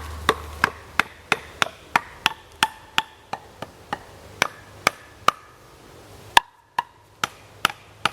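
Rapid, evenly spaced knocks of wood being struck, about three a second, each with a short ringing tone. A louder blow a little past six seconds is followed by a brief pause before the knocking resumes.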